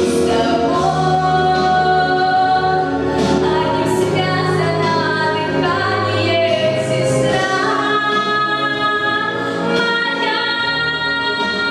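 A girl singing a song in long held notes, with instrumental accompaniment underneath.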